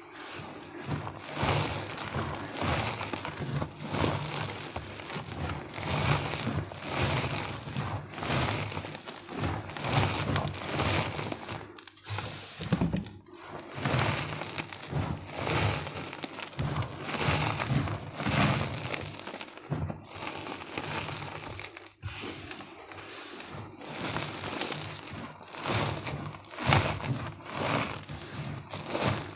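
Blocks of gym chalk being crushed and crumbled, a continuous run of dry crunches coming about once or twice a second.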